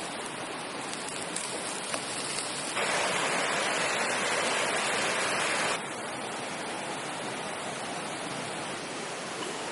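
Steady rushing noise, louder for about three seconds in the middle.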